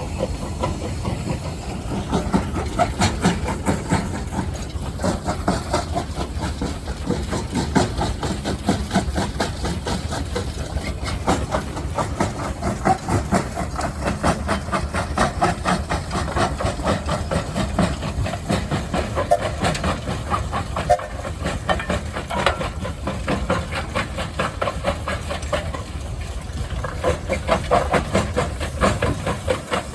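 Steam engine running, its exhaust chuffing in a rapid, even rhythm with a steady hiss of steam.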